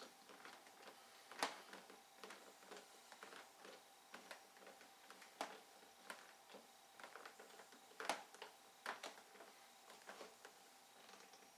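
Scattered light clicks and taps of hand work on a car's interior door panel, with a few sharper knocks about one and a half, five and a half, eight and nine seconds in, over a faint steady hum.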